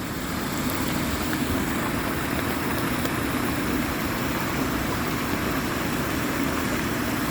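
Floodwater from a swollen creek rushing and pouring steadily, a constant, even rush of water.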